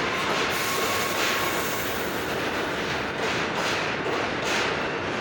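New York subway train running through the station, a steady loud rumble and rush of wheels on rail, with a run of regular wheel clacks over the rail joints in the second half.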